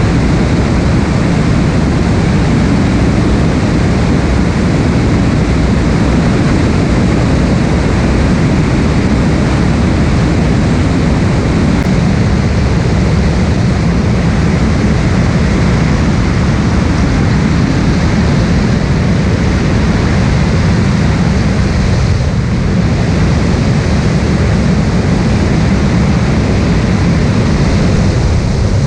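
Steady, loud drone of a Cessna light aircraft's piston engine and propeller in flight.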